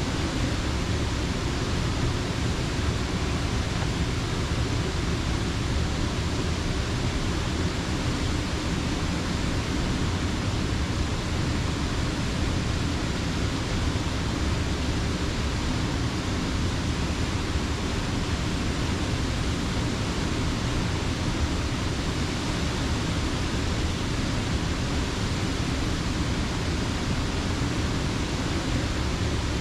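Water rushing steadily over a mill dam on a creek, a constant even rush with nothing else standing out.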